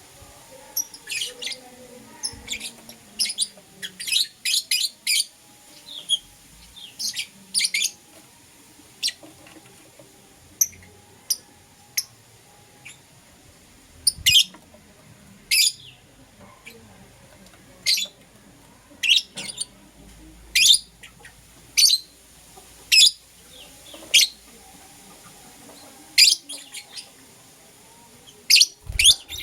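Lovebirds chirping: short, sharp, high-pitched chirps, coming in quick clusters at first, then as single loud chirps about every second.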